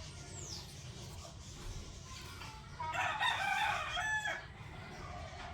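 A rooster crowing once, a call of about a second and a half starting about three seconds in.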